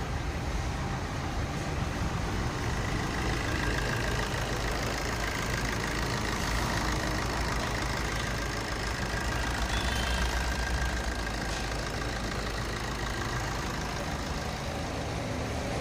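Maruti Suzuki Swift engine idling steadily during an engine carbon cleaning, with a faint high whine through the middle of the stretch.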